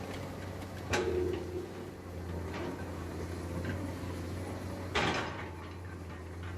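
Excavator diesel engine running steadily, with two sharp knocks about four seconds apart, the first about a second in followed by brief ringing, typical of the bucket striking or dumping material.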